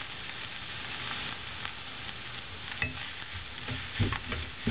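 Kanda pohe (flattened rice with onions and peanuts) frying in a pan with a steady sizzle. About three seconds in, a wooden spatula starts stirring it, with soft knocks and scrapes against the pan.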